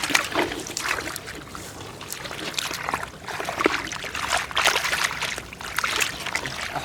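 Shallow water splashing and trickling in irregular bursts.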